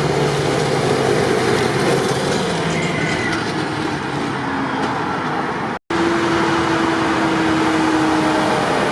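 Tractor engines running steadily, with wavering engine tones over a constant mechanical noise. The sound cuts out for an instant just past halfway, then carries on.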